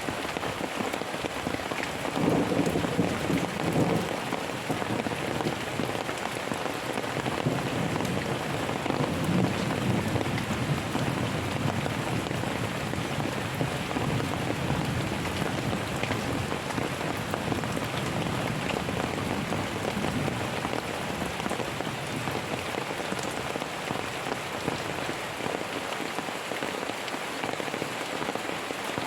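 Steady heavy rain falling, with low rolls of distant thunder rumbling under it, swelling about two seconds in and fading away in the second half.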